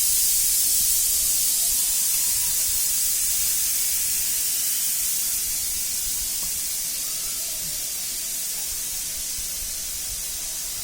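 A steady, loud, high-pitched hiss that cuts in and out abruptly and slowly fades.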